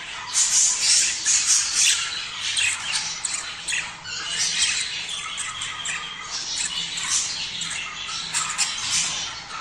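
A group of budgerigars chattering and squawking nonstop in quick, overlapping chirps, the breeding-season chatter played to get budgies to mate. The loudest bursts come in the first two seconds and again near the end.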